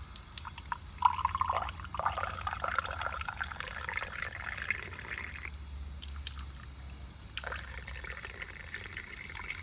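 Water poured into a Cummins EGR valve to test whether it holds water, a check for a valve stuck open. The pitch rises steadily as it fills for about four seconds, then gives way to drips and trickling.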